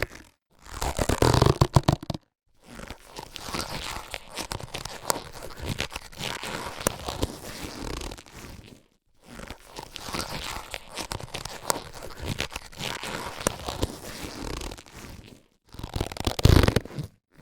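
Latex surgical gloves being handled: rubbery rustling and crinkling in passages of several seconds broken by brief silences, with louder bursts near the start and near the end.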